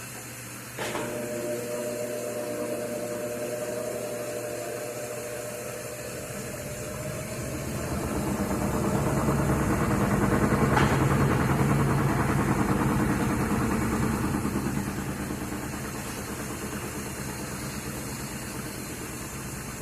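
Electrolux LTD13 washing machine in its spin cycle: a click about a second in, then a steady motor whine, and a rumbling drum that swells to its loudest around the middle and eases off again as the spin settles.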